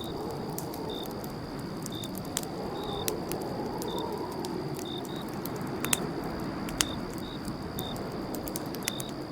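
Campfire crackling with scattered sharp pops, a couple of them louder near the middle, over a steady low rush of burning, while crickets chirp about once a second.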